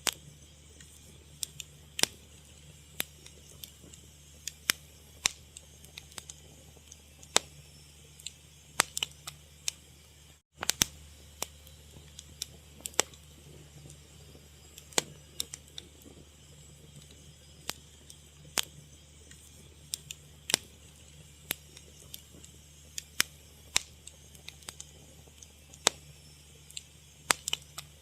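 Fire crackling: irregular sharp pops and snaps, some much louder than others, over a steady low hum.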